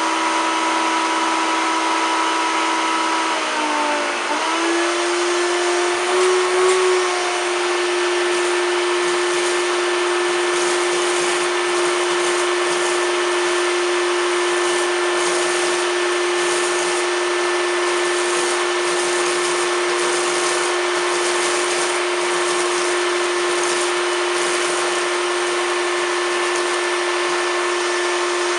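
1993 Hoover Turbopower 2 1000 upright vacuum cleaner running on high power with a loud, steady motor whine. About four seconds in the pitch dips, then settles at a higher steady tone. Later come faint crackles of cornflakes being sucked up.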